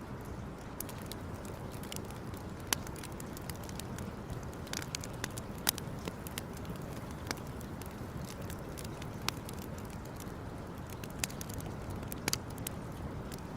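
Wood campfire crackling, with sharp irregular pops every second or so over a steady low background noise.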